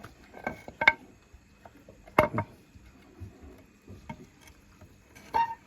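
Metal parts and tools clinking against each other: about four separate ringing clinks, the loudest about two seconds in.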